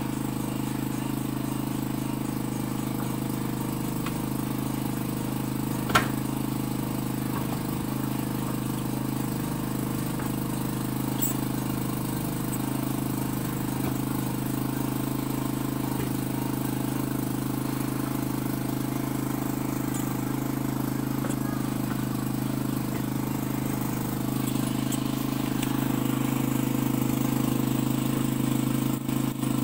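A steady engine drone running on at a constant pitch, with a single sharp click about six seconds in. It grows slightly louder near the end.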